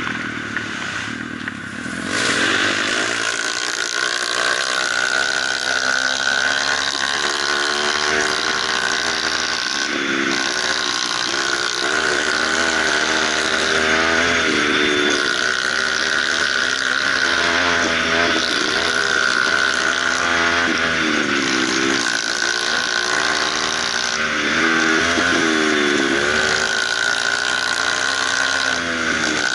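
Kawasaki KLX150 dirt bike's single-cylinder four-stroke engine heard on board while riding, its note rising and falling over and over as the throttle is worked, over a steady hiss. It is quieter for the first two seconds, then picks up.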